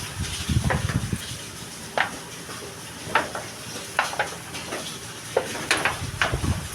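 Metal pieces clinking and tapping during welding work: about eight sharp knocks at irregular moments, some in quick pairs, over a steady faint hiss.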